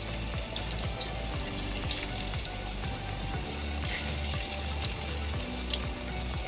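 Cabbage kababs frying in shallow oil in a non-stick pan, a steady sizzle with scattered small clicks as spatulas turn them over. Background music with low held notes plays over it.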